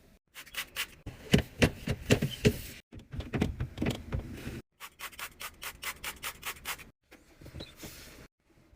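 Containers and items being handled during fridge cleaning and restocking: rapid clicks, taps and knocks with rubbing between them, in short clips cut together with brief silent breaks.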